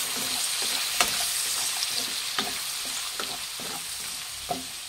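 Chicken pieces frying and sizzling in oil in a kadai while a wooden spatula stirs them, with irregular scrapes and knocks of the spatula against the pan; a sharper knock comes about a second in.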